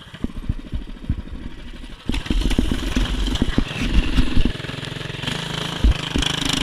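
Mini bike's Predator 212cc single-cylinder four-stroke engine running. About two seconds in, the throttle opens and the engine runs harder for a couple of seconds, then drops back to a lower, steady note. A few sharp knocks sound over it. The bike has no traction in the snow, so the revving goes with wheelspin rather than speed.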